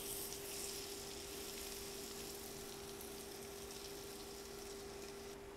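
Minced garlic sizzling in butter and oil in a frying pan as it is stirred with a spatula: a steady, even fizzing hiss.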